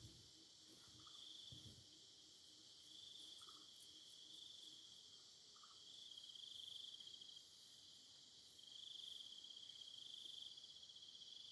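Insects trilling faintly, in repeated high-pitched trills of one to two seconds each, over a steady background hum of insects.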